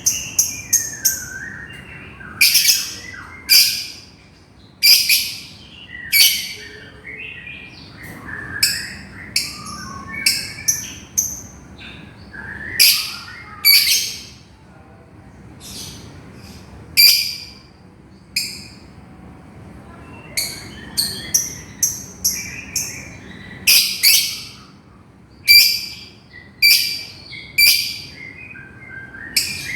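Lovebird giving loud, shrill repeated contact calls to a companion, in irregular runs of short piercing calls with softer chattering chirps between them.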